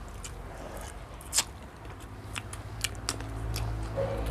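People eating: biting and chewing, with scattered sharp clicks and crunches, the loudest about a second and a half in. A low rumble builds in the second half.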